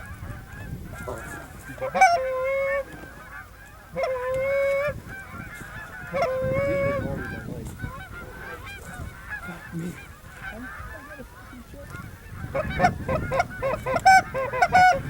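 A flock of Canada geese honking, with many short calls throughout. In the first half there are three longer drawn-out honks about two seconds apart, and the calling thickens into a dense burst near the end.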